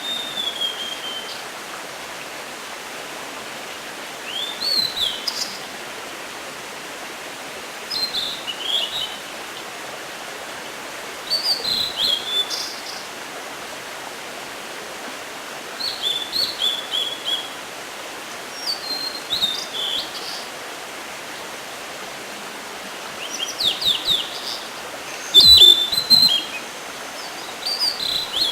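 Blue-and-white flycatcher singing: short phrases of high, sliding whistled notes, repeated every three to four seconds. There is a steady hiss behind them, and a low bump about 25 seconds in.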